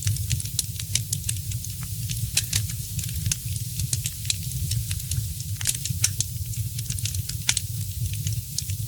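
Wood fire burning in a fireplace, crackling with many sharp irregular pops and snaps, several a second, over a low steady rumble.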